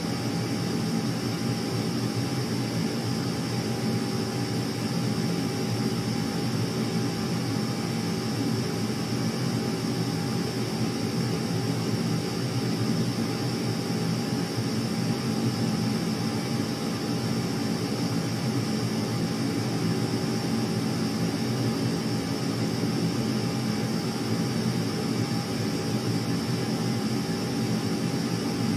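Steady aircraft engine noise with a held whine, unchanging throughout, with no rise or fall as from a passing plane.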